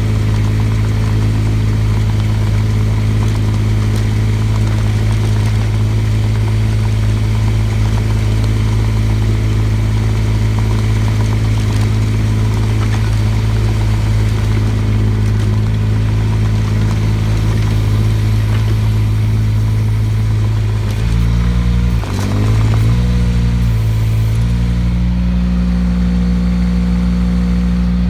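Mini excavator engine running steadily. About 21 seconds in, its speed dips and wavers for a few seconds, then it settles at a higher, steady speed.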